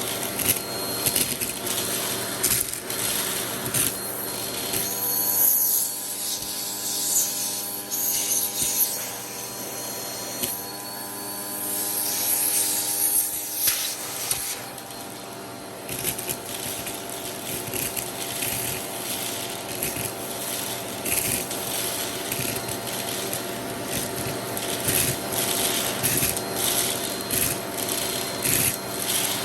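Vacuum cleaner running with an attachment tool, its motor giving a steady hum. Frequent clicks and rattles run over it throughout.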